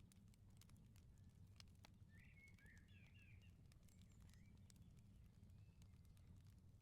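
Faint firepit crackle, with scattered sharp pops, over a low steady rumble; a bird chirps a few quick notes about two to three seconds in.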